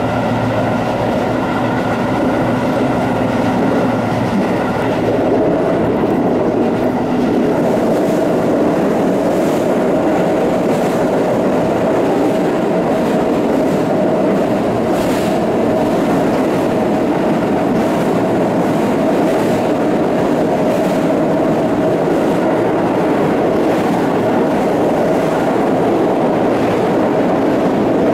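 Electric commuter train running along the line, heard from inside the driver's cab: a steady rumble of wheels on rail, with a high motor whine that fades out in the first few seconds and occasional faint clicks over rail joints.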